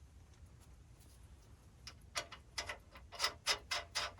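A run of sharp clicks or taps, about three or four a second, starting about two seconds in, over a faint low hum.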